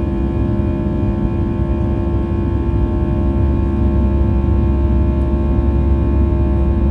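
Steady drone of an Airbus A320's CFM56-5B turbofan engines heard inside the passenger cabin: a low rumble under several steady tones, with no change in level.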